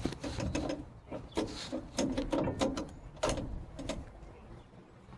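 Irregular clicking and clattering of hard objects being handled, with several sharp knocks, the loudest about three seconds in.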